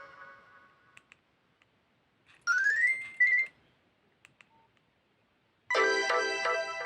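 Nokia 3110 Classic ringtones played through the phone's loudspeaker. One tune fades out at the start, a short tone rises and then holds about halfway through, and a new bright melody starts abruptly near the end. Faint clicks fall in the gaps.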